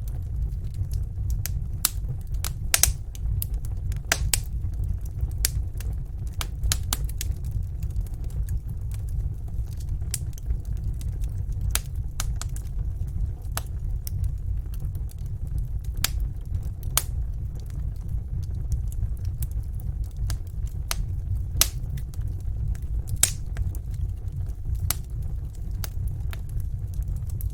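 A fire burning in a fireplace, crackling with irregular sharp pops over a steady low rumble.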